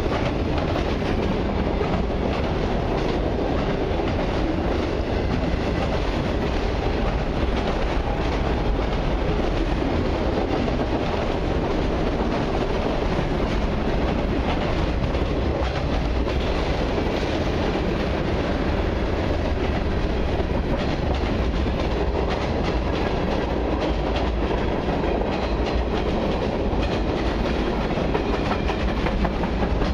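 Freight cars of a long train rolling steadily past close by: a continuous rumble of steel wheels on rail with repeated clicking as the wheels cross rail joints.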